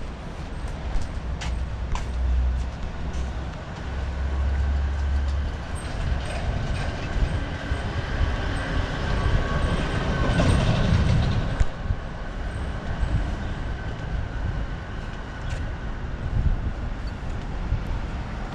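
Street traffic with a steady low rumble; a large vehicle passes close by about ten seconds in, swelling and then fading.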